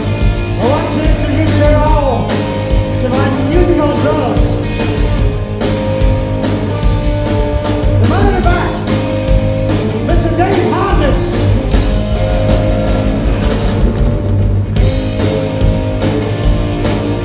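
Live rock band playing an instrumental passage: drums and bass under a lead line that bends up and down in pitch in several short phrases.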